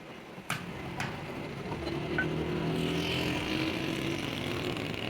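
Two sharp clicks, then from about two seconds in an engine running steadily and growing a little louder.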